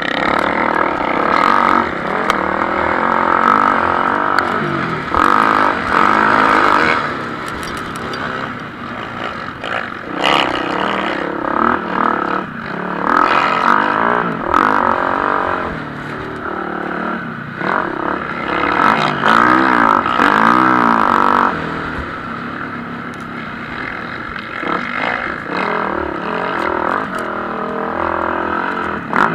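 Several MX1-class motocross bikes racing, their engines revving up and falling back in pitch as they accelerate and shift. The sound swells several times as bikes pass close.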